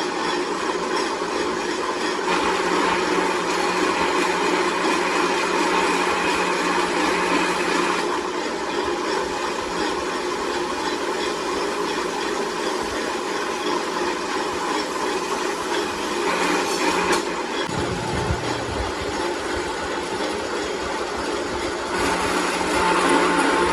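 Workshop machinery running steadily, a continuous mechanical hum and whir whose pitch and loudness shift a few times.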